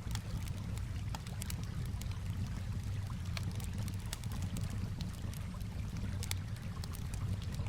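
Wood campfire crackling with frequent irregular sharp pops, over a steady low rumble and calm water lapping.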